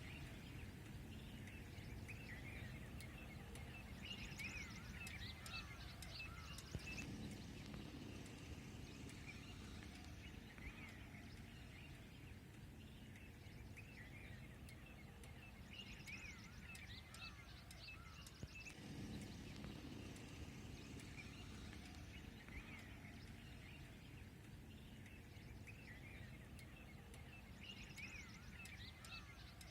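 Birds chirping in quick bursts of short calls over a low, steady outdoor rumble.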